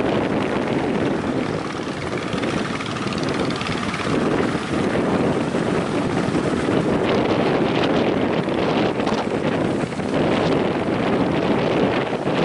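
Strong wind buffeting the microphone over the rush of surf at a river mouth: a steady, dense roar that swells and eases in gusts.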